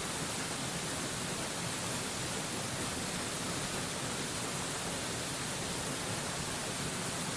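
Waterfall rushing as a steady, unbroken hiss, heavy in the treble, with no changes or distinct splashes.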